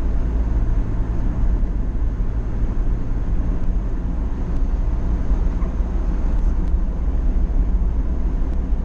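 Motorcycle riding: steady wind rush and buffeting on a helmet-mounted camera's microphone, with the engine running underneath.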